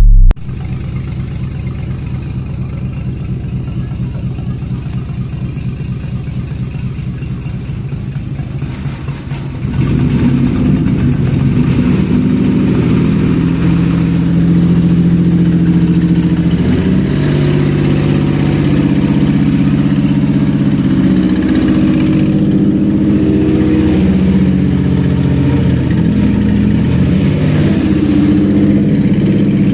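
Toyota 1MZ-FE 3.0-litre V6 on a test stand, cranked over by its starter in a fast steady rhythm for about nine seconds, then catching about nine and a half seconds in and running louder, its pitch rising and falling as it is revved.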